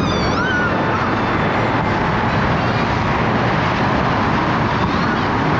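Steady rushing noise of a moving vehicle, with a few brief high chirps near the start.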